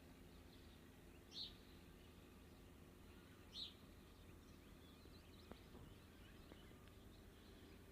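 Faint bird calls: a short high call twice, about two seconds apart, followed by softer scattered chirps, over a low steady background noise.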